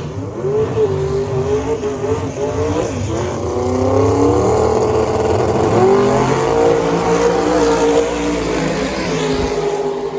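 Drag race cars' engines running hard down the strip, several engine notes rising and falling at once.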